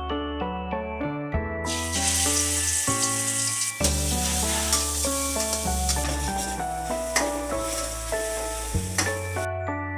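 Food sizzling in hot oil in a pan, starting about one and a half seconds in and cutting off near the end, over steady background music.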